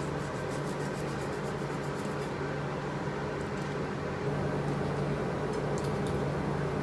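Ventilation fan in a vent running with a steady hum and whoosh, plus a few faint light ticks.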